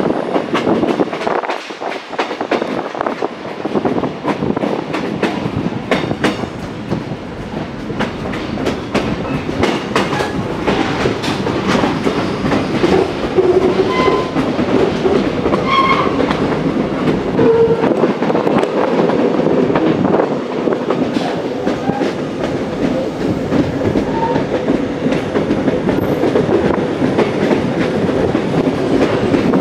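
Passenger train running, heard from the carriage window: a steady rumble of the wheels on the track with repeated clickety-clack over the rail joints. A few short squeals come around the middle.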